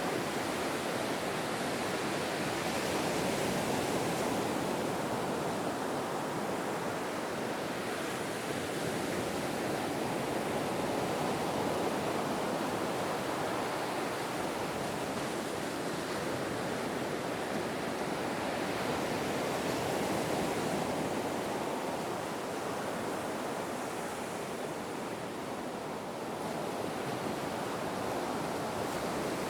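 Ocean surf: a continuous rush of waves washing in, swelling and easing slowly every several seconds.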